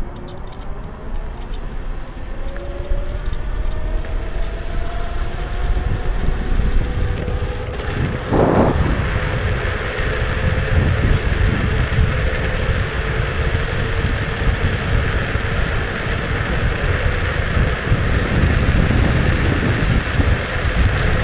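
Kukirin G2 electric scooter on the move: the motor's whine rises in pitch as it picks up speed over the first few seconds, then holds steady under a constant rumble of wind on the microphone and road noise. A brief louder rush comes about eight seconds in.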